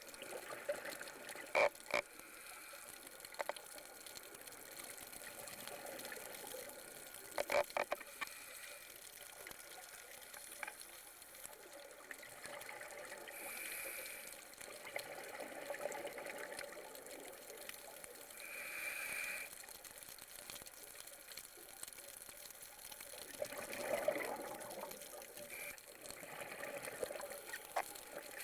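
Underwater bubbling from a scuba diver's exhaled breath, swelling in bursts about every five seconds over a steady watery hiss. A few sharp clicks sound in the first eight seconds.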